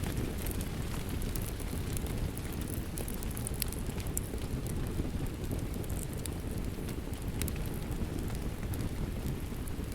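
Steady rain mixed with a crackling wood fire: an even, low-heavy hiss with scattered sharp crackles and pops.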